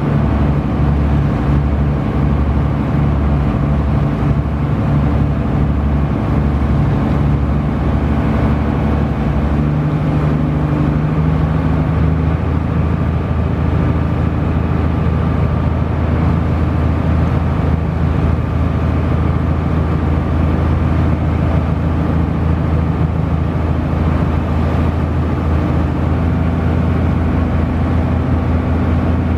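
Wakato ferry's engine running steadily while under way, a low hum with several steady tones; about twelve seconds in the engine note shifts slightly higher.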